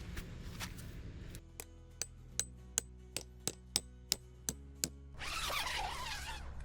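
About ten sharp, ringing metal strikes, roughly three a second, like tent stakes being hammered in, followed near the end by a rustling.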